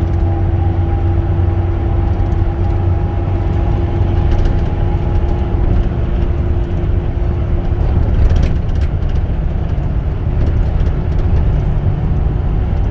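Cab interior of a 2011 Ford F-450 on the road: the 6.7 L Power Stroke V8 turbodiesel running under way with tyre and road noise as a steady low rumble. A steady whine sits over it and fades out about eight seconds in.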